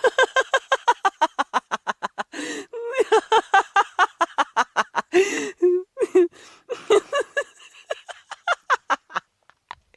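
A person laughing hard in rapid, high-pitched 'ha-ha' pulses, about seven a second, in several runs broken by short pauses.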